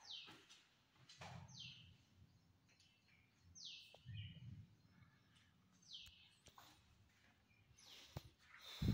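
A bird calling over and over: a short high note sliding down in pitch, repeated every one to two seconds. A louder short knock comes near the end.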